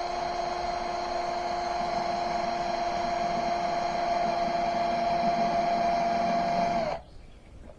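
Electric drill running at a steady speed, drilling the hole for a switch in the sawmill's control panel, with a steady whine. It stops about seven seconds in.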